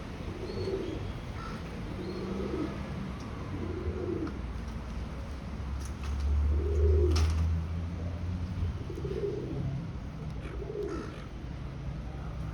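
Feral pigeons cooing: about six short, low coos spaced a second and a half to two seconds apart. A low rumble swells in the middle, with a sharp click about seven seconds in.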